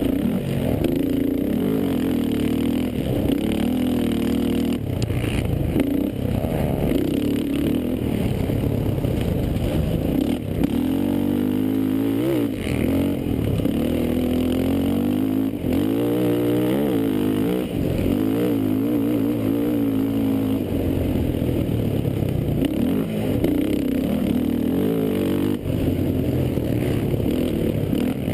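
Racing quad (ATV) engine revving hard, its pitch climbing and dropping again and again as the throttle opens and closes.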